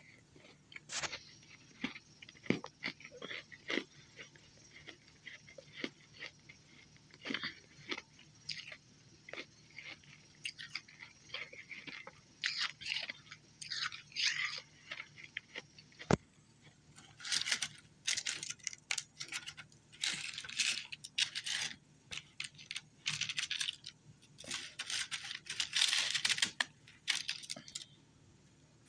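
Ice being bitten and chewed close to the microphone: irregular crisp crunches, with denser and louder runs of crunching in the second half that stop shortly before the end.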